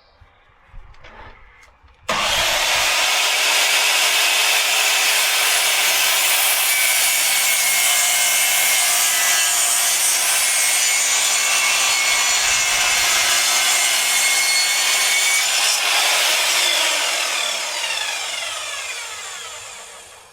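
Electric saw cutting wood: it starts abruptly about two seconds in and runs steadily. Over the last few seconds it winds down, its pitch falling as the blade coasts to a stop.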